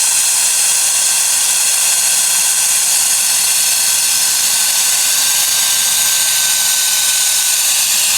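Wolfbox MF200 cordless air duster running at full power to inflate a sleeping pad: a loud, steady rush of air with a high fan whine.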